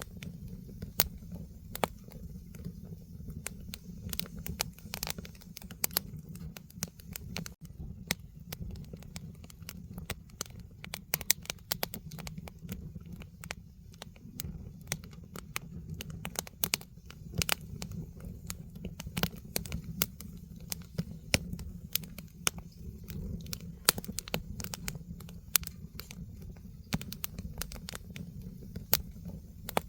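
Firewood burning in a fire pit, crackling with many irregular sharp pops and snaps over a steady low rumble of the flames.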